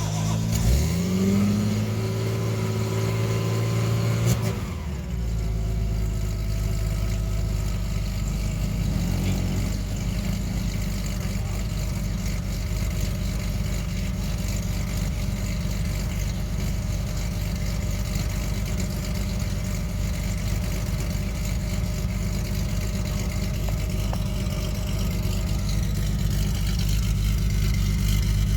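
1979 TVR Taimar's 3.0 Ford Essex V6 starting from cold: it catches with a rising rev in the first second or two, runs steadily, then changes to a steady, deeper idle about four and a half seconds in.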